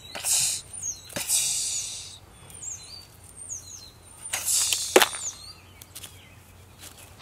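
A small songbird chirps repeatedly in short sweeping high calls. Between the chirps come brief bursts of rustling and a couple of sharp clacks, the loudest about five seconds in, from gravel pebbles being handled.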